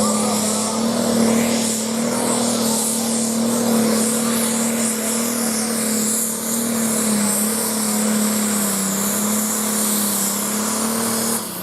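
Competition pulling tractor's diesel engine running flat out under heavy load, holding one steady high note with a hiss over it, then falling away right at the end.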